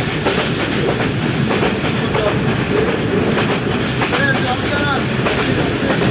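Train running along the track: a steady, loud rumble and rattle of the wheels and carriages.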